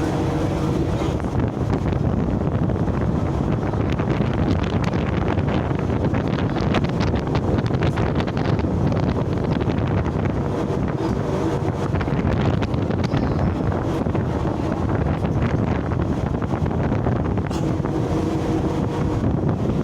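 Steady wind rushing over the microphone aboard a sea ship, over the continuous noise of the ship and the sea.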